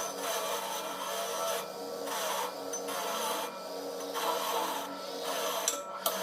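Repeated rubbing or scraping strokes, swelling and fading roughly once a second, over a steady low hum.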